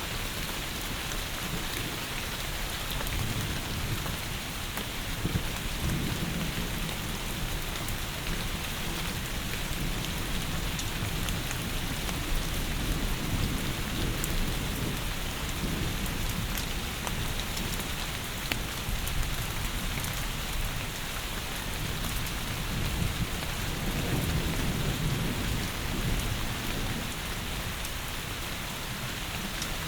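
Heavy rain pouring steadily, with a low rumble swelling up and fading twice.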